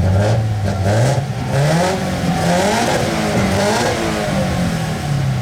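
Subaru BRZ's flat-four boxer engine revved repeatedly through its exhaust, the pitch climbing and dropping back several times.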